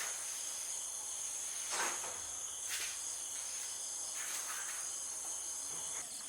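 Steady, high-pitched chorus of crickets trilling, with a few brief rustling noises in the middle.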